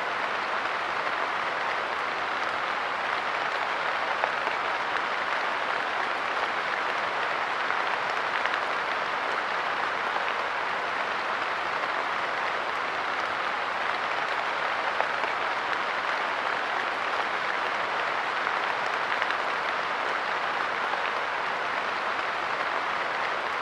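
Light rain falling steadily, a dense even patter of drops with a few louder individual drops.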